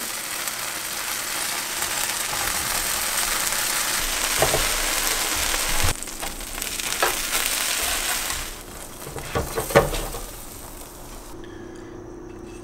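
Grilled cheese sandwiches sizzling as they fry in melted vegan spread on a hot stovetop griddle pan, with a few light knocks. The sizzle dies down about two-thirds of the way through, leaving a faint steady hum near the end.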